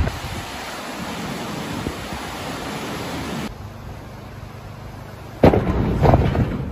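Storm noise from wind and rain. A steady hiss drops to a quieter hiss at a cut between clips, then a sudden loud rush of wind with low rumbling on the microphone begins about five seconds in.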